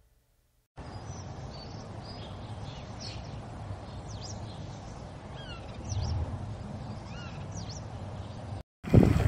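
Birds calling with many short chirps and quick falling calls over a steady low rumble, starting about a second in.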